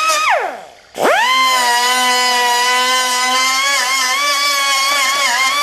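Electric grinder spinning down when the trigger is let go, then started again about a second in. It whines quickly up to speed and runs steadily while grinding out the welds on a steel toolbox, its pitch dipping slightly now and then under load. It is let go and winds down at the end.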